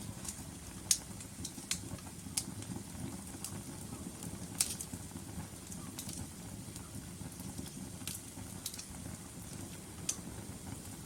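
Log fire burning in a fireplace: a steady low rumble with sharp, irregular crackles and pops, the loudest about a second in and another at about four and a half seconds.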